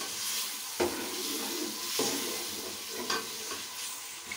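Chicken sizzling in hot oil in a metal pot while a long metal spoon stirs it, the spoon knocking and scraping against the pot a few times. The chicken is being browned (bhuna) with onions and ginger-garlic.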